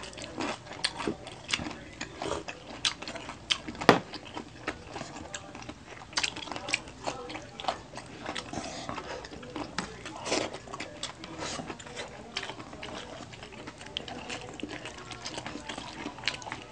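Close-miked eating sounds: chewing and crunchy bites of crispy pata (deep-fried pork leg) and food picked apart by hand. A dense run of irregular clicks and crackles, with one sharper click about four seconds in.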